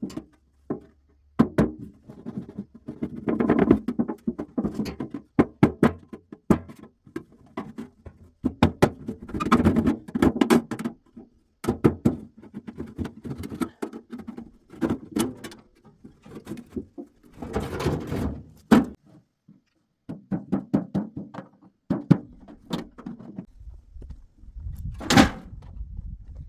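A long run of irregular knocks and thunks of hard objects being handled, set down and struck, coming in clusters with short pauses between them.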